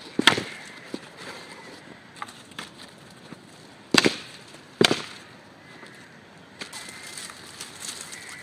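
Wood being chopped: three sharp strikes, one about a quarter second in and two close together about four seconds in, with a few lighter knocks between.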